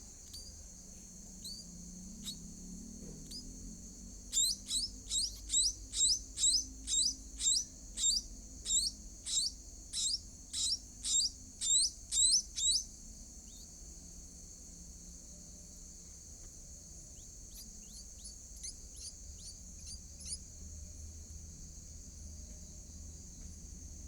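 Nestling birds begging with a run of loud, quick, high calls, about two a second for some eight seconds, then fainter calls a few seconds later. Steady high chirring of insects runs underneath throughout.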